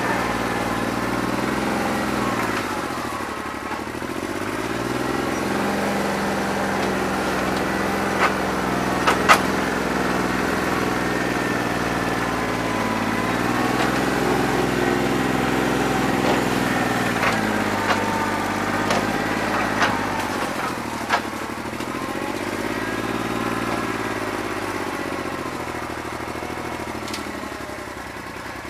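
New Holland 1320 tractor's three-cylinder diesel engine running with a bad injector, missing on one cylinder; its speed sags and recovers several times. A few short sharp knocks sound in the middle stretch.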